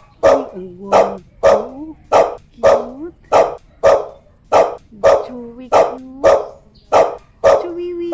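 A dog barking over and over at a steady pace of about two barks a second, with a thin rising and falling whine between some of the barks.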